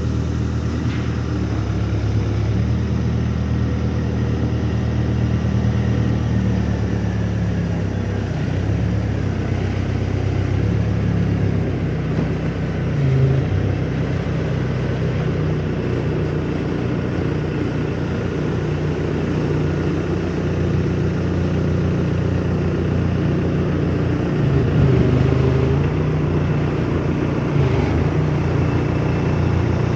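A vehicle engine running steadily at low speed, with slight changes in pitch a couple of times.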